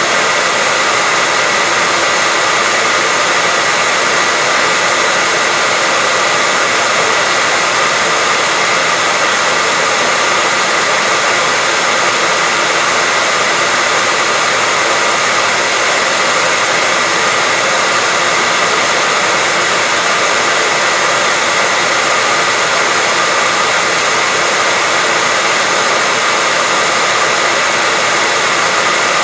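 Hair dryer running steadily: a loud, even rushing blower noise with a faint high hum, unchanging throughout, played as a sleep sound for a baby.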